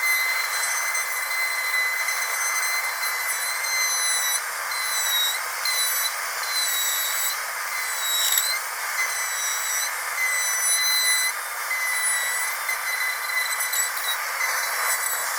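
Dentist's drill running with a steady high-pitched whine over a hiss, its pitch dipping briefly several times.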